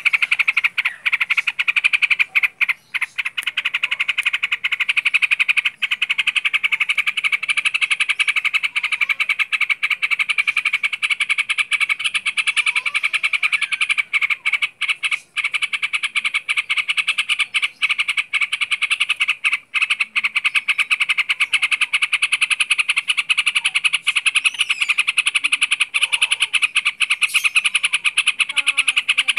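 A dense, continuous rapid trilling chorus of calling animals, with a few brief breaks.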